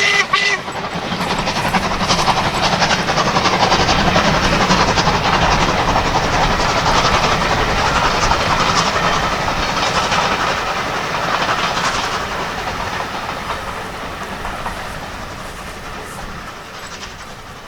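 Steam-hauled train passing close by, a loud, even rush that builds, holds and then fades away over the last few seconds. The tail of the locomotive's whistle sounds in the first half-second.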